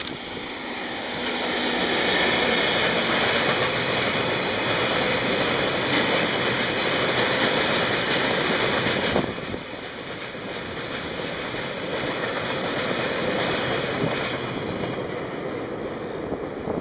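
A freight train of tank wagons rolling past on the rails: a steady, loud rumble and clatter of wheels. The noise drops sharply about nine seconds in and stays lower as the last wagons go by.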